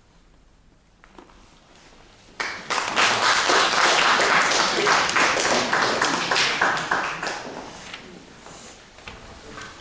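A short hush, then an audience breaks into applause about two and a half seconds in, thinning out near the end.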